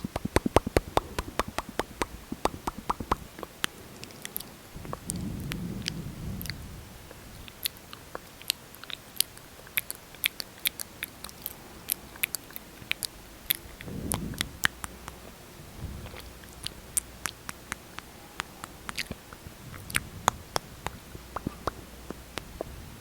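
Close-miked mouth sounds: sticky lip smacking and clicking with lipstick and gloss on the lips. It opens with a quick run of clicks, then goes on as scattered sharp smacks with a few soft low swells.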